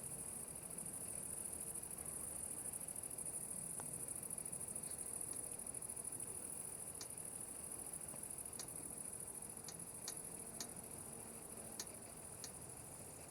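Insects chirring outdoors: a steady high-pitched trill that holds throughout. Over it, about nine short sharp high ticks come in the second half.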